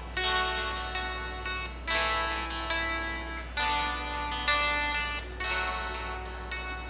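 Dulcimer playing an instrumental Christmas tune: notes and chords struck about once a second, each ringing out and fading before the next.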